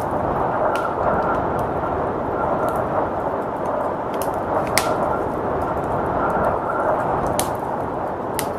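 Wood fire crackling and popping in a fireplace over the steady rush of blizzard wind. The wind is a dense, low-pitched noise, and the crackles are scattered irregular ticks, with a few sharper pops about five seconds in and again near the end.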